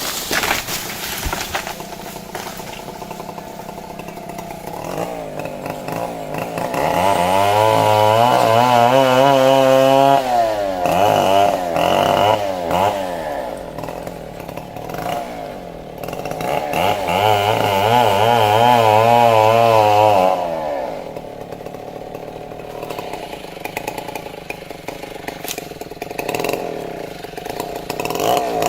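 Stihl chainsaw idling, then opened up to full throttle twice for several seconds each, its pitch wavering under load as the chain cuts into the trunk, dropping back to idle between cuts.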